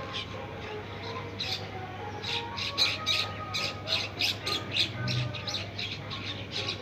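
Birds squawking in short, harsh calls, sparse at first and then coming thick and fast, several a second, from about two seconds in, over a steady low hum.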